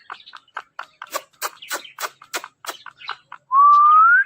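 Ringneck parrot making a quick run of sharp clicks, about four a second, then one loud whistle that rises in pitch near the end.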